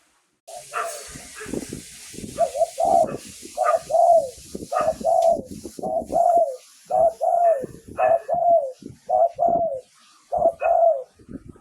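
Spotted dove cooing: a long series of short, falling coos, mostly in pairs, repeated steadily for about ten seconds. This is the calling used as a decoy to lure wild doves.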